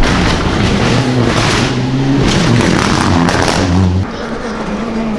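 Rally car engine revving hard on a special stage, its pitch climbing and falling back with each gear change. The level drops suddenly about four seconds in.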